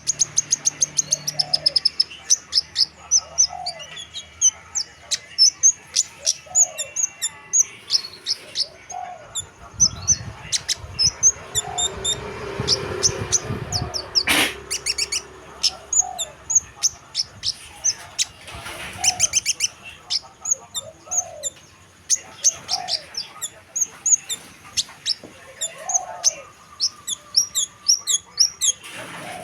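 A kemade bird calling: low hooting notes repeated about every one and a half to two seconds, over many fast, high chirps and trills. A low rumbling noise runs for a few seconds around the middle.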